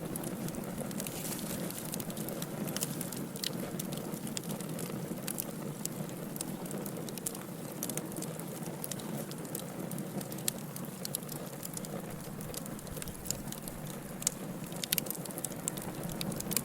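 Firewood burning in a fireplace: a steady low rush of flames with frequent irregular sharp crackles and pops.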